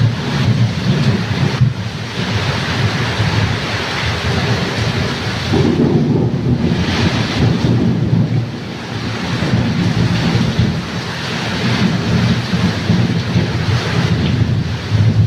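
Heavy rain in a thunderstorm with strong gusting wind, loud and continuous, over a deep rumble that rises and falls throughout.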